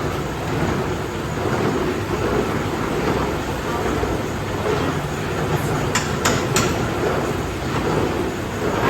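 Steady loud din of workshop machinery, with three sharp metallic knocks in quick succession about six seconds in.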